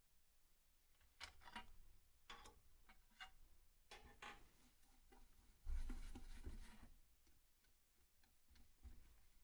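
Quiet handling noise: scattered light clicks and small scrapes, with a louder rubbing scrape lasting about a second around six seconds in.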